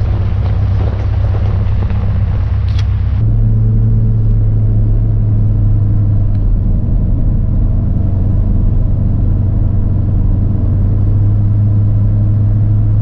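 Steady low drone of a truck driving, heard from inside the cab. About three seconds in, the higher hiss drops away abruptly and the low drone gets a little stronger.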